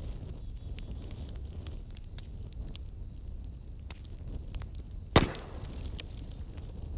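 Wood fire in a fireplace crackling, with scattered small pops and one loud sharp pop about five seconds in.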